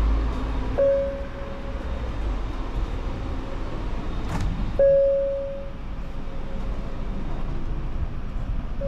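Steady low rumble of a JR Shikoku 8600 series electric train running, heard from inside the passenger car. Two short ringing tones sound over it, one about a second in and a louder one just before five seconds in, preceded by a brief sharp click.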